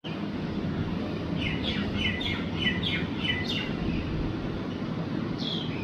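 A bird calling in a quick run of short falling chirps, about three a second, then once more near the end, over a steady low background hum.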